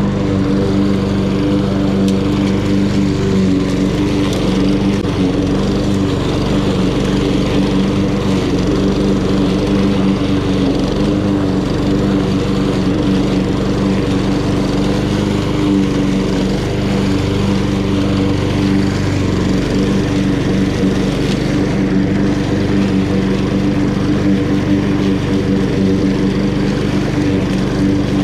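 Honda GCV170 single-cylinder four-stroke engine on a walk-behind lawn mower, running steadily at constant speed while cutting grass.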